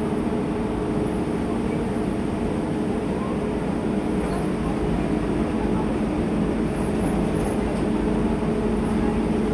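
Inside a TransJakarta city bus driving through heavy rain: a steady hum with a few held low tones under an even rush of road and rain noise.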